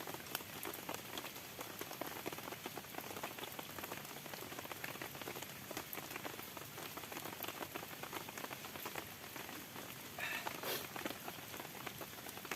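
Heavy rain falling steadily, with a dense stream of individual drops tapping close by.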